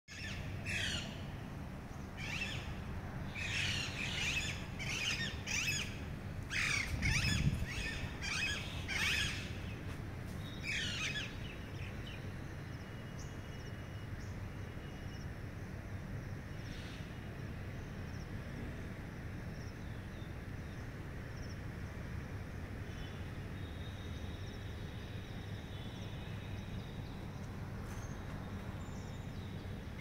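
Birds calling outdoors: a run of harsh, squawking calls repeated about once a second for the first eleven seconds, then fainter, thinner calls. A steady low background rumble runs throughout, with one low thump about seven seconds in.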